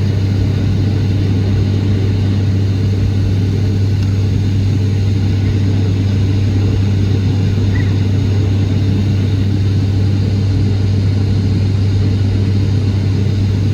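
Steady cabin noise of an airliner in flight shortly after takeoff: the engines and rushing air make an unchanging, loud low hum inside the passenger cabin.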